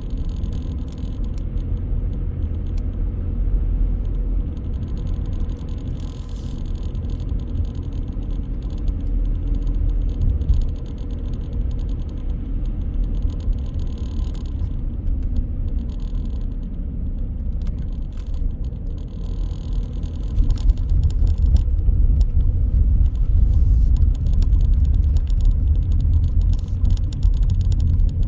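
Car driving through city streets: a steady low rumble of engine and road noise, getting somewhat louder about two-thirds of the way through.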